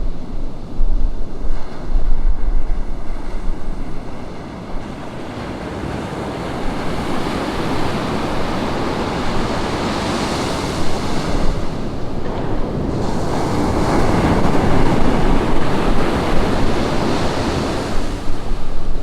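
Ocean surf breaking and washing up a sandy beach in a steady rushing wash that swells and fades as waves come in. Wind buffets the microphone in gusts during the first few seconds.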